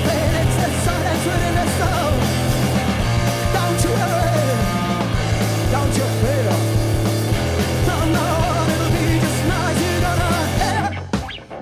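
Live rock band playing loud, dense music with a heavy bass line and singing. The band stops abruptly for a moment near the end, then comes straight back in.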